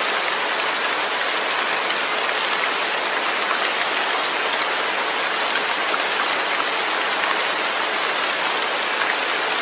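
Steady rain with no thunder: a dense, even hiss of falling rain with faint scattered drop ticks.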